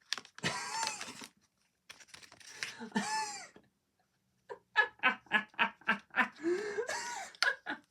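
A man laughing: a couple of wordless exclamations, then a rhythmic run of laughs at about five a second ending in a rising vocal sound.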